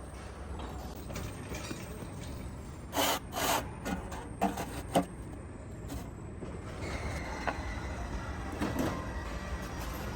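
Workshop noise: a steady low hum, two short loud hissing bursts about three seconds in, then several sharp knocks and scattered clicks.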